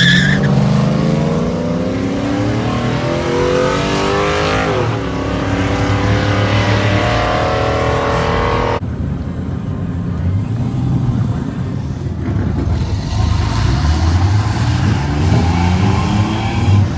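Drag-racing vehicle's engine at full throttle, its pitch climbing steadily with a short drop at a gear shift about five seconds in. The sound cuts off suddenly near nine seconds into a quieter engine that rises in pitch again toward the end.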